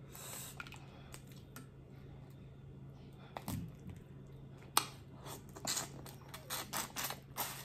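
Eating a crawfish boil close to the microphone: a brief low sound about three and a half seconds in, then a run of short, sharp crackles and clicks in the second half, from crawfish shells being cracked and peeled by hand.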